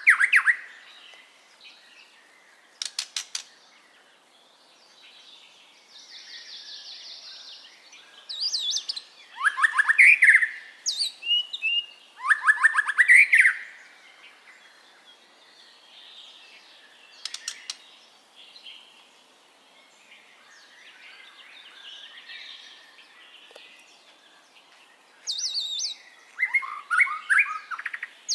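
White-rumped shama (murai batu) singing: loud phrases of quickly repeated notes that sweep up in pitch, about a third of the way in, again soon after, and near the end, with softer twittering and brief fast clicking trills between.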